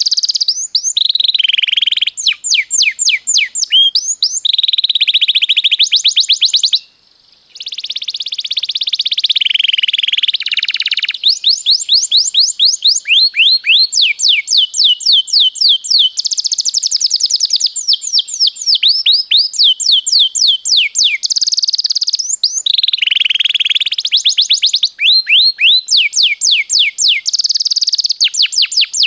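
Domestic canary singing a long, continuous song of fast repeated trills and rolled phrases, with one brief pause about seven seconds in.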